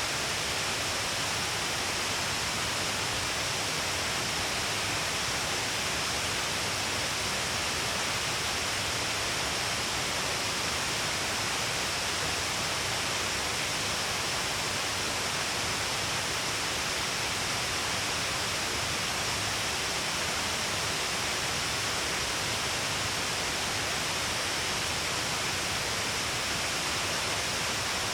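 Shiraito Falls, a wide waterfall of many threads of water spilling along a cliff face, giving a steady, unbroken rush of falling water and spray.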